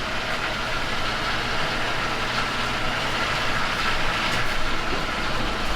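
Steady mechanical hum with an even whirring noise over it, holding level throughout, like a running fan or motor.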